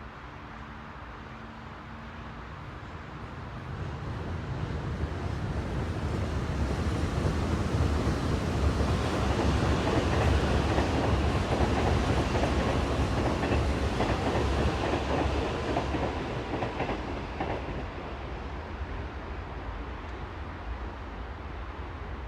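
A passing vehicle: a low rumble swells over several seconds, peaks with a rapid run of clicking, then fades away.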